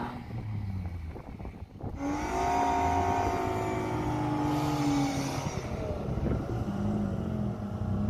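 Off-road 4x4 engines running under load, rising sharply about two seconds in, then easing slowly down in pitch, while a stuck Suzuki Vitara SUV is towed out of deep snow on a rope.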